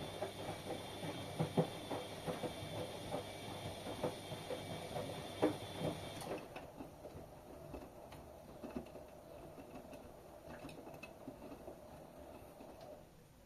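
Washing machine running, with irregular clunks and rattles from the drum over a steady whine and hum. About six seconds in the whine cuts off. The drum clatters on more faintly as it winds down, fading out near the end.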